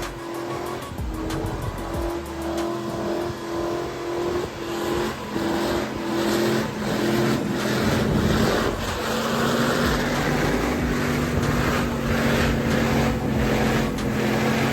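Drift car engine held high in the revs with tyres squealing as the car slides, its pitch stepping up and down in the first half and then holding steady and louder.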